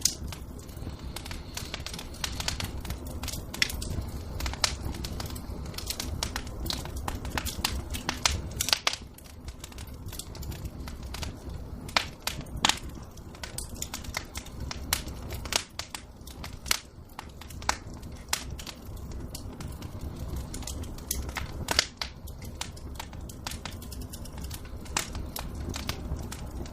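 Wood fire crackling in a fireplace, with irregular sharp pops and snaps over a low steady rumble of burning.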